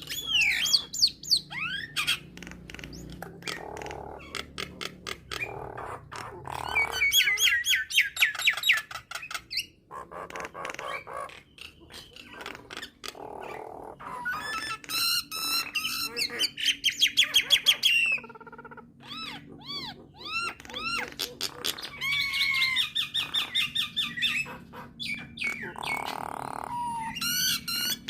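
Jalak nias, a starling kept as a songbird, singing a long varied song: rapid runs of repeated whistled notes, sweeping whistles and harsh squawks, in phrases broken by short pauses.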